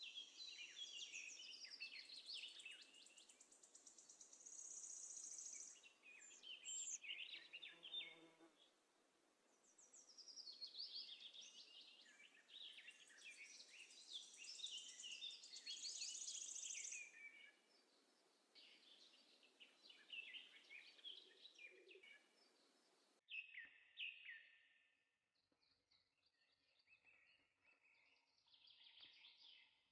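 Faint birdsong: small birds chirping and trilling in bursts, over a low hiss that cuts out about three-quarters of the way through.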